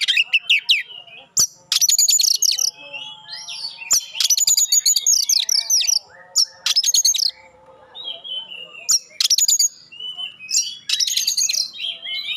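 Oriental magpie-robin singing: loud bursts of rapid, sharp, repeated high notes, the 'shot' notes prized by keepers, every second or two, with softer warbling phrases between them.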